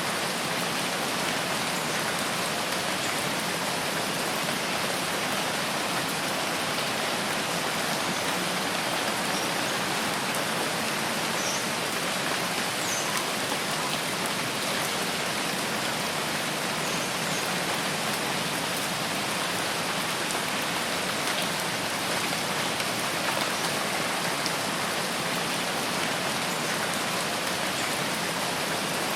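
Steady rain falling, a dense, even hiss of drops that neither builds nor pauses, with a few faint, short high chirps in the middle.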